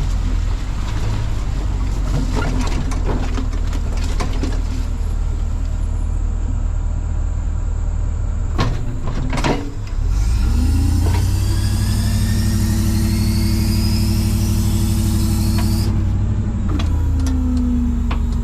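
Tow truck engine running as the truck drives, with a couple of sharp clicks about nine seconds in. The engine then picks up with a rising whine and a steady drone, and eases off near the end.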